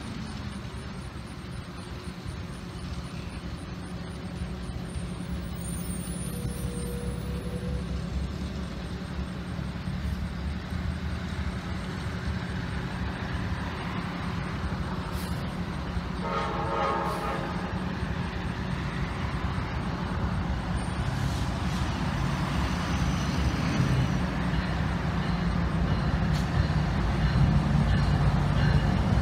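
Passenger train with a diesel locomotive approaching: a low rumble that builds steadily louder toward the end. About halfway through, the locomotive's horn sounds once for about two seconds.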